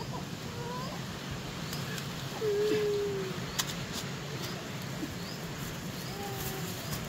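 Birds calling: short high chirps repeating about once a second, and a few longer whistled notes, the loudest a drawn-out note about two and a half seconds in. A couple of sharp snaps are heard about three and a half and four seconds in.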